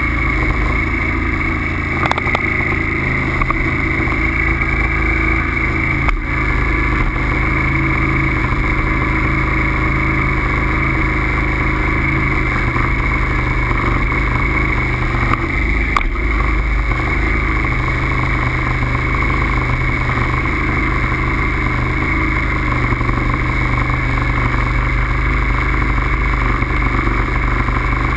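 Steady wind rumble and road noise on a camera riding along on a moving bike, with a few faint clicks.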